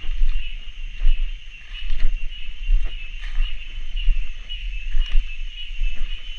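Wind gusting against the microphone as an uneven low rumble that swells and drops every second or so, over a steady high-pitched chorus of cicadas.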